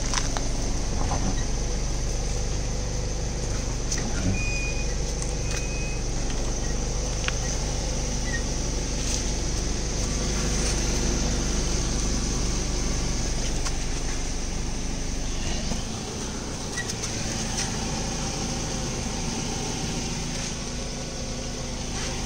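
Car engine idling steadily with a low hum, which weakens about sixteen seconds in.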